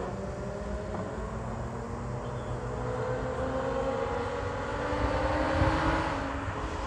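Infiniti Q50's VQ37VHR V6 running through long-tube headers and a full Tomei exhaust, its note climbing slowly in pitch as the revs build. It is loudest about five to six seconds in, then eases off.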